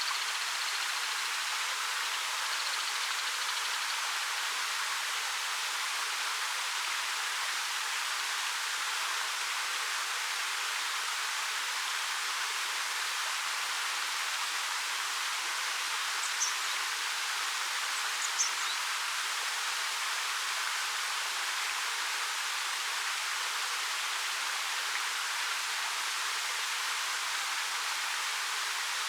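A waterfall of about 13 m falling over rock, its water making a steady, even rushing sound that sits mostly in the upper range with little low rumble. Two brief high chirps come a couple of seconds apart past the middle.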